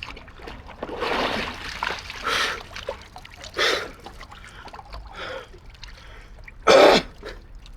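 Water splashing and trickling in an ice hole as a person dips in: several irregular splashes, the loudest near the end.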